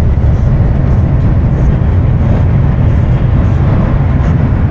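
Steady, loud low rumble of a truck on the move, heard from inside the cab: engine and road noise while driving.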